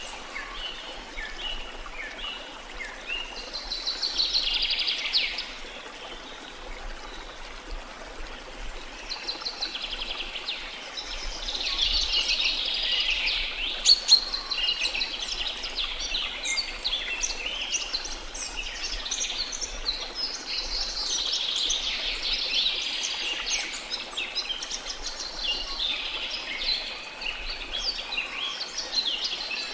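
Many birds chirping and trilling together over a steady rush of falling water, with one sharp click about halfway through.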